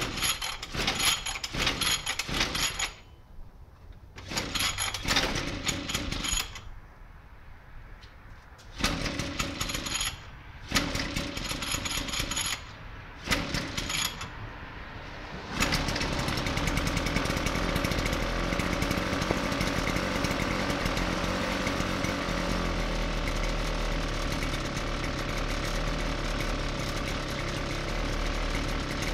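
A 33cc two-stroke pocket bike engine being cold-started: it fires in short rattly bursts and dies several times, then catches about halfway through and keeps running steadily. It is hard to start and still needs warming up.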